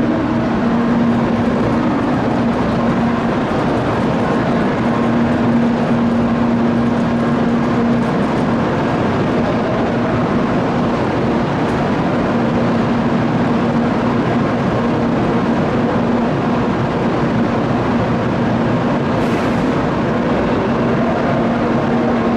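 Continuous train noise at a Shinkansen station: an even rushing hiss with a steady low hum that drops out for a few seconds near the middle.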